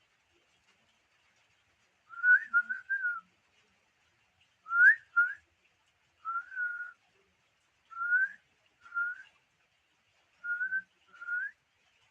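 Pet bird whistling: clear single notes, mostly short upward slurs, given in small groups of two or three with short pauses between, starting about two seconds in.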